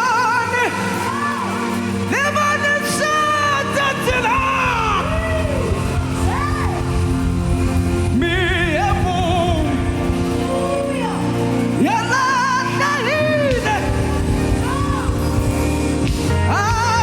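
Live gospel worship music: a sung lead vocal with vibrato and sliding runs over a steady band backing.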